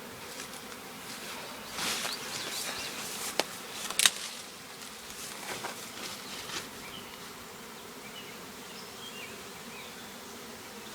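Honeybee swarm buzzing steadily, with a burst of rustling about two seconds in and two sharp knocks a little after three and four seconds in.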